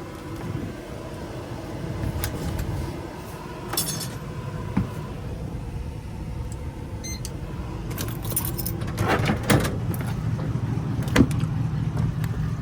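Keys jangling and clicking in scattered bursts, the sharpest a little after the middle, over a steady low vehicle rumble.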